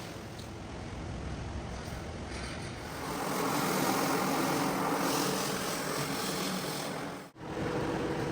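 A machine motor running with a steady rushing noise. It gets louder about three seconds in and cuts off abruptly near the end.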